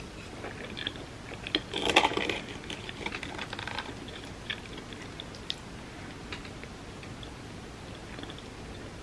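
Close-miked eating of creamy rice pudding: wet mouth sounds and soft chewing, loudest in a busy cluster about two seconds in, then scattered small clicks.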